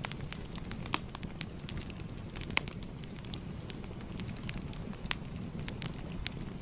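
Crackling fire: a steady low rush of flames with irregular sharp pops and snaps, two of them louder, about a second in and midway.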